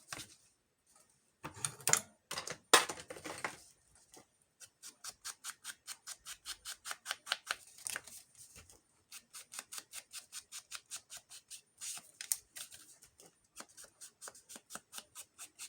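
Ink pad dabbed rapidly against the edges of paper to age them, about four quick taps a second with a couple of short pauses. A few louder handling rustles and knocks come first.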